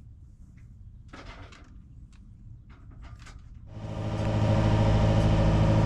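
A few faint knocks and clatters over a low hum. About two-thirds of the way in, a motorsailer's inboard engine drone comes in, loud and steady.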